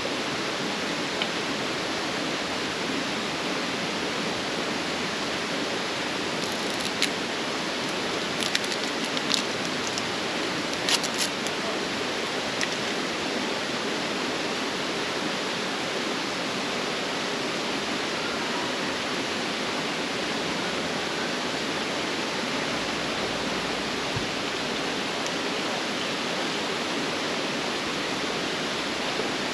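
Steady rushing noise at an even level, with a few light clicks between about seven and eleven seconds in.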